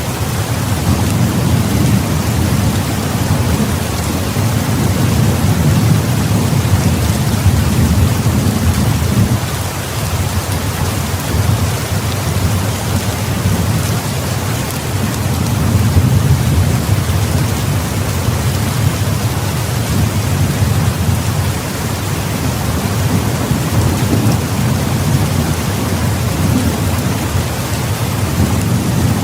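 Heavy rain pouring steadily, over a deep low rumble that swells and eases every several seconds.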